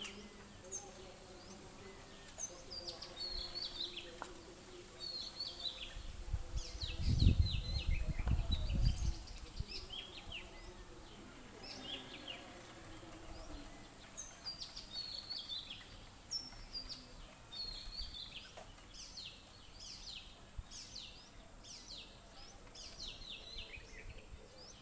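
Several Asian green bee-eaters chirping and chattering: many short, quick falling chirps, repeated throughout. About seven seconds in, a low rumble lasts about two seconds and is the loudest sound.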